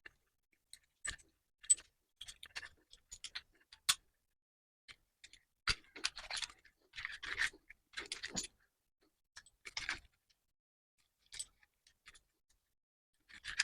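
Scattered small metal clicks and taps, with a few short bursts of scraping about six to ten seconds in, from handling a small cast-iron swivel bench vise and tools.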